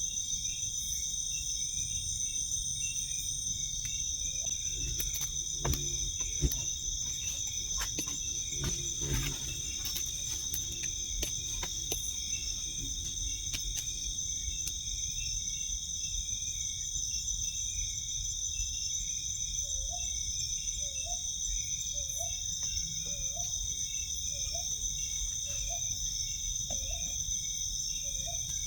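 Forest insect chorus, crickets and other insects, holding several steady high-pitched tones throughout. Scattered clicks and two sharp knocks come in the first half. A series of short rising calls from an animal repeats about once a second near the end.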